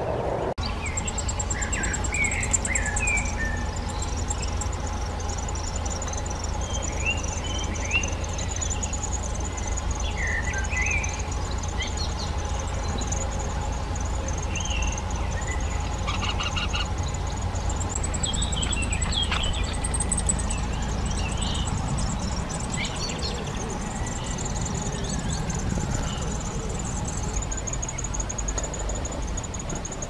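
Birds chirping in short, scattered calls over a continuous high-pitched trill, with a steady low rumble underneath.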